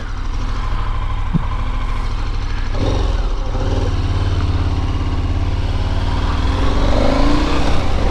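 KTM motorcycle engine running at low speed during a turn, growing louder about three seconds in and rising in pitch near the end as the bike accelerates away.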